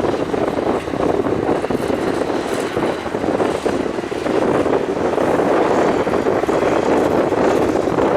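Excavator's diesel engine running steadily under load while digging.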